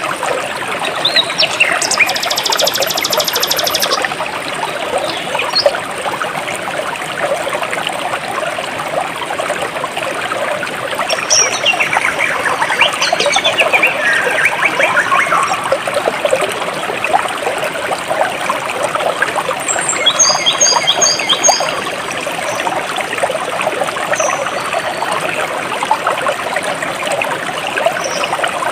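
Jungle stream flowing steadily, a constant splashing trickle, with birds calling over it: a buzzy high trill a few seconds in, a run of chirps around the middle, and a quick series of four high repeated notes about two-thirds of the way through.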